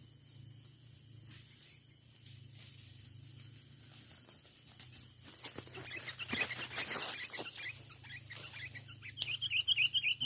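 Sooty-headed bulbuls in a scuffle: rustling and wing fluttering about halfway through, then a fast run of chattering calls near the end.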